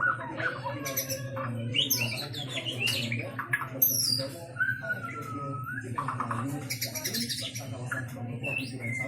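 White-rumped shama in full song: a varied, continuous run of clear whistles, gliding notes and quick chirps. A steady low hum lies underneath.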